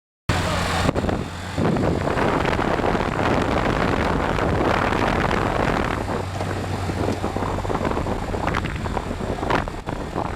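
Motorcycle riding along: the engine runs steadily under a heavy rush of wind and road noise. The sound cuts in abruptly just after the start.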